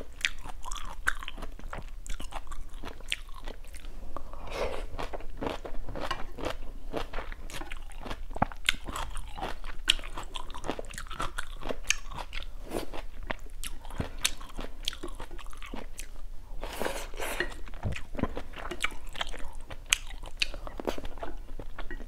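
A person chewing food close to the microphone: a steady run of wet mouth clicks and crunching bites.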